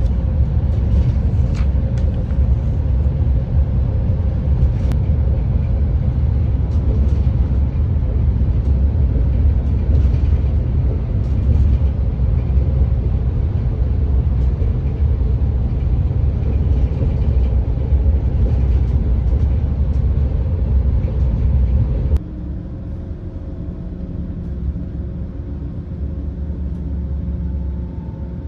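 Low, steady running rumble of an ETR600 Frecciarossa tilting high-speed train, heard from inside the carriage. About three-quarters of the way through it drops suddenly to a quieter hum with a few faint steady tones.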